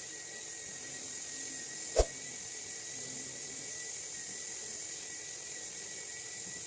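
A steady high hiss with a faint, steady high whine, broken by one sharp knock about two seconds in.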